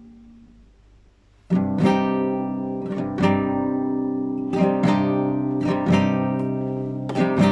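Classical guitar played in an improvisation: a chord dies away, then about a second and a half in a loud strummed chord starts a run of ringing chord strokes every second or so.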